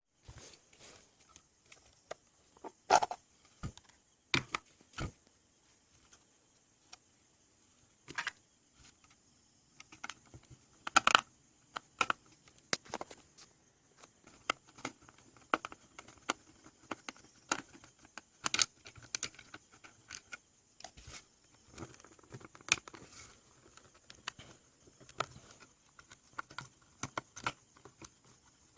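Irregular clicks, taps and clatter of small hard objects being handled and set down, with louder knocks about 3, 11 and 18 seconds in, over a faint steady high-pitched tone.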